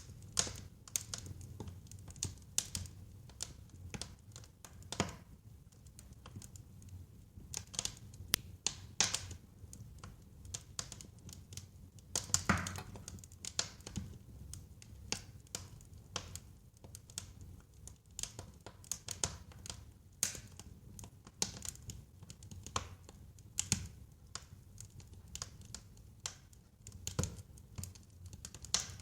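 Wood fire in a fireplace crackling: irregular sharp snaps and pops, several a second, over a low steady rumble of the burning, with a louder cluster of pops about twelve seconds in.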